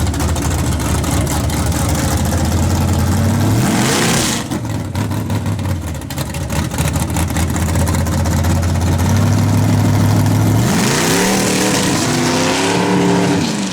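Chevy S10 pickup's engine running, with the revs rising briefly about three and a half seconds in and again for a few seconds near the end before dropping. The engine is breaking up with popping under load, which the owner suspects comes from low voltage in the ignition wiring.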